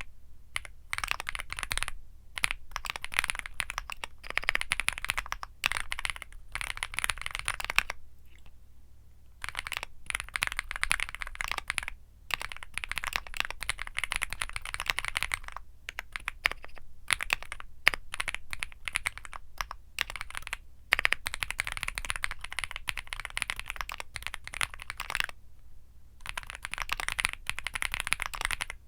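Womier SK75 mechanical keyboard with Womier Mint Blizzard switches being typed on, fast continuous keystrokes in long runs. There is a pause of about a second and a half some eight seconds in and a shorter one near the end.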